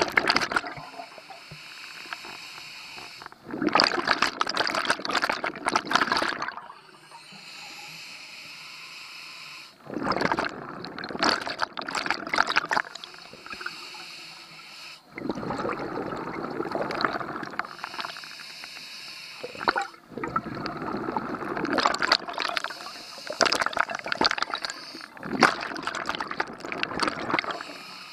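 A scuba diver breathing through a regulator underwater: about four long bubbling exhalations, a few seconds apart. Between them come quieter hissing inhalations.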